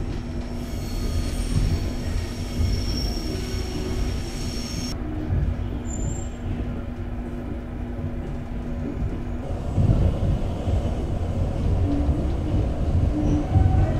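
Passenger train running on the rails, heard from inside the sleeper carriage: a steady low rumble, with a thin high whine over it in the first five seconds.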